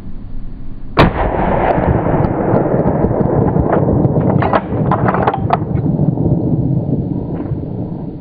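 A single gunshot about a second in, followed by a long rolling rumble that fades over several seconds, with a scatter of short sharp clicks midway through.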